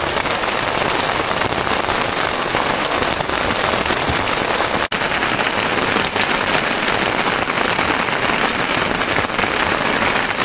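Steady heavy rain pattering on a tent, a dense hiss of many drops, broken by a momentary gap about five seconds in.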